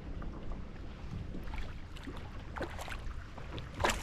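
Low wind rumble on the microphone, with scattered small clicks and splashes of water, and a sharper click near the end.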